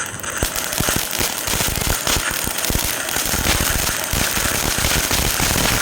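Crackling ground firework (a 3-in-1 tin) burning, a dense continuous run of fast sharp crackles and pops.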